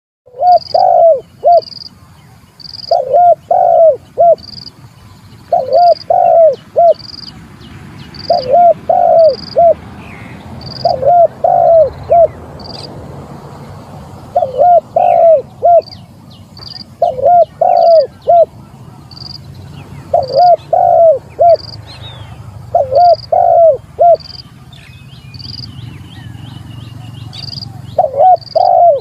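Spotted dove cooing over and over, a phrase of three or four coos every two to three seconds, as a challenge call to a rival. A short high chirp repeats about once a second behind it.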